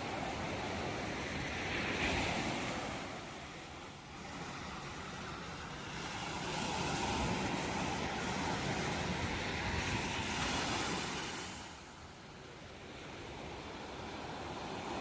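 Ocean surf washing in and out in slow swells: one wave peaks about two seconds in, a longer one builds from about six seconds and drops away near twelve, and another begins rising near the end.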